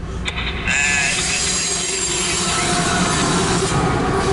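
Loaded coal train rolling past, steel wheels on rail, with thin wavering squeals over the noise. It gets suddenly louder less than a second in and then holds steady.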